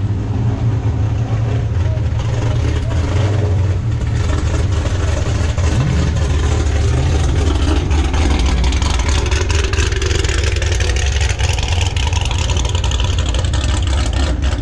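Car driving with a steady low engine drone under road and wind noise, the engine note briefly rising and falling about six seconds in.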